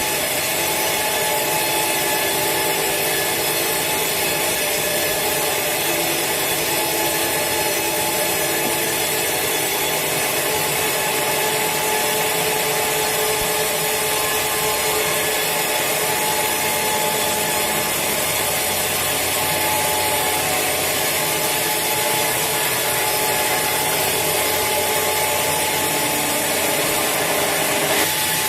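Sawmill saw cutting through a large teak log, a steady, unbroken sawing noise.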